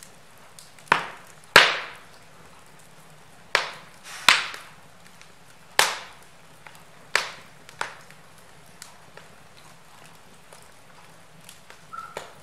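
Logs burning in a fireplace, crackling with sharp, loud pops scattered irregularly over a steady low hiss of flame. The two loudest pops come close together in the first two seconds.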